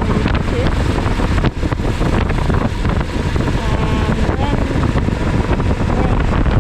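Wind noise buffeting the helmet-mounted action-camera microphone while riding, over the steady low running of the Suzuki V-Strom 1000XT's V-twin engine.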